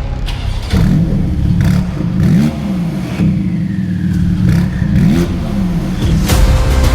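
Porsche 911 Turbo S twin-turbocharged flat-six revving, its pitch rising and falling several times, with a falling whistle in the middle.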